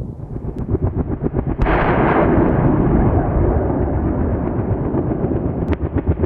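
AH-64 Apache helicopter's rotor beating in a rapid chop, with a sudden louder rush of noise about a second and a half in that slowly fades.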